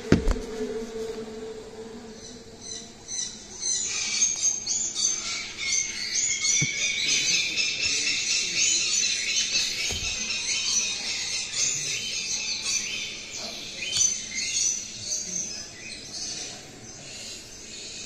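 Dense, high-pitched bird chirping and twittering that builds about four seconds in and thins out near the end. A sharp knock at the very start.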